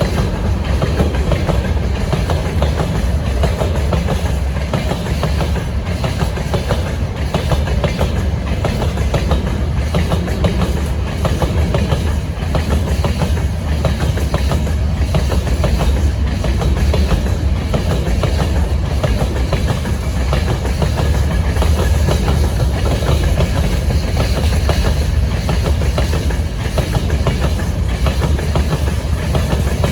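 Freight train wagons rolling past, their steel wheels clattering over the rail joints in a steady, continuous run.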